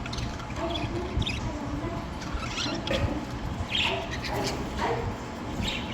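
Budgerigars chattering in short, scratchy chirps and squeaks, scattered irregularly, over a steady low hum.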